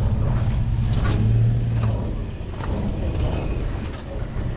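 Toyota FJ Cruiser's 4.0-litre V6 engine running at low revs as the 4WD crawls slowly through a sandy dip. The engine note swells briefly about a second in, then eases back.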